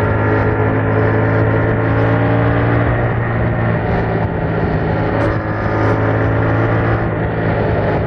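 Yamaha MT-07's 689 cc parallel-twin engine running through its stock exhaust at fairly steady revs while riding, a continuous droning note with only slight changes in pitch.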